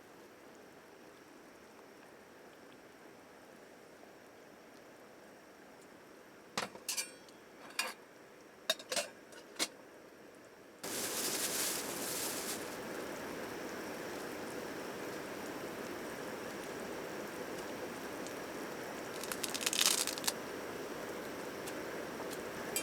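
Several light clinks of dishes and utensils, then an even hiss that starts suddenly about halfway through and holds steady, with another short clatter of clinks near the end.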